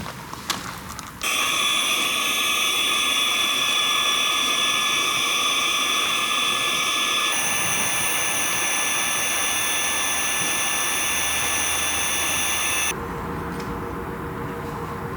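Small electric air pump running with a steady high whine as it inflates an air tent. It starts suddenly about a second in, shifts pitch about halfway through, and drops to a quieter, lower hum near the end.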